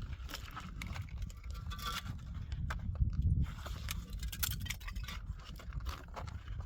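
Irregular knocks and taps over a low steady rumble.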